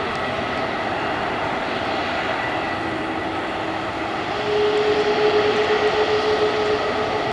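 Airbus A330-300 jet engines running at taxi power, a steady whine over a broad rush of engine noise. About four seconds in, a tone steps up in pitch and the sound gets a little louder.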